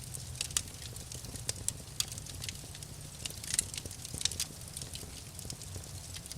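Wood fire crackling, with irregular sharp snaps and pops (the loudest about three and a half and four and a quarter seconds in) over a low steady rumble.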